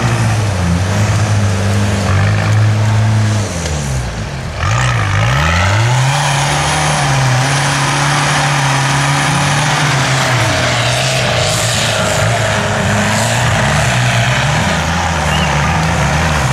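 Off-road 4x4 engine running at high revs under load. About four seconds in the revs drop briefly and climb back, then hold high and steady.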